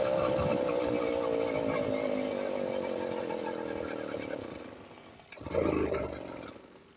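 Motorized bicycle's small engine running with a buzzing, chainsaw-like tone that slowly fades away. A brief louder rush of sound comes about five and a half seconds in, then it goes quiet.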